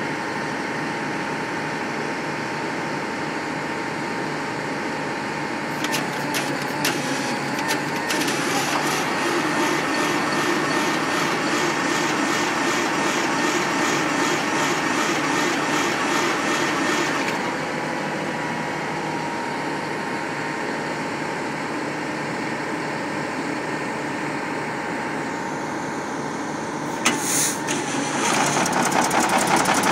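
Engine of a pump running steadily. It grows louder for about ten seconds with a few sharp clicks near the start of that stretch, and near the end there is a sudden hiss and it picks up again.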